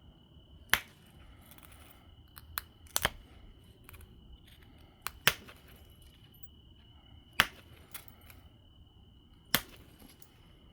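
Obsidian biface being knapped: a sharp click each time a flake comes off. Four loud clicks come about two seconds apart, with smaller ticks between them.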